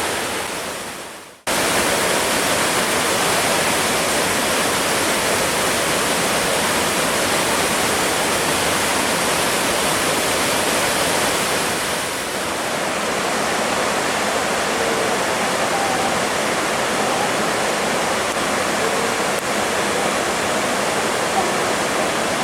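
Waterfall: a steady, loud rush of falling water. About a second and a half in, it briefly fades to nothing and cuts straight back in.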